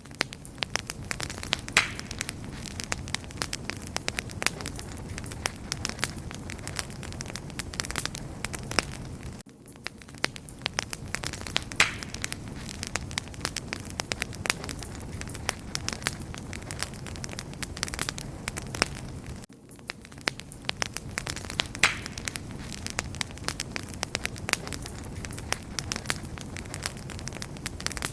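Wood fire crackling: frequent sharp pops and snaps over a steady low rushing of flame. It is a loop about ten seconds long, with a brief dip in level at each join.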